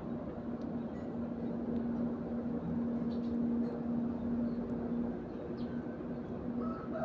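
A steady low mechanical hum, like a motor or engine running, with faint, scattered short chirps from sparrows.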